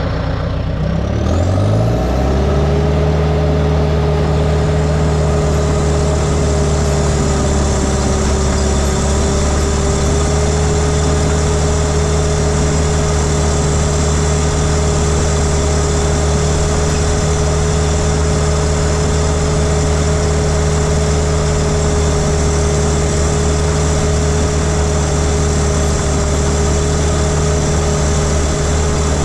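Heavy diesel engine of an earthmoving machine revving up over the first two seconds, then running steadily at working speed with a steady whine above the engine note.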